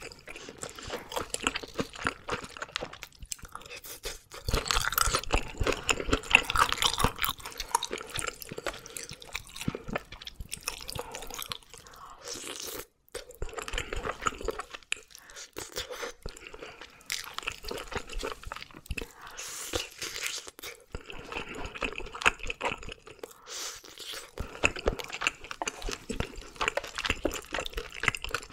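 Close-miked eating sounds: wet chewing and crunching of red sea bream sashimi and oven-grilled sea bream, with many small mouth clicks. There is a short break about halfway.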